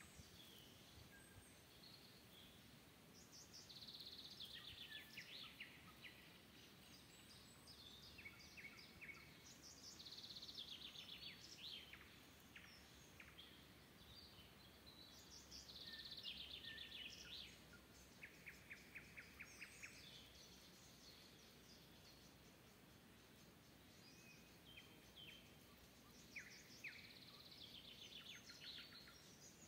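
Several songbirds singing faintly in a forest: song phrases of quick descending notes and trills recur every few seconds, including a rapid even trill about eighteen to twenty seconds in, over a faint steady background hiss.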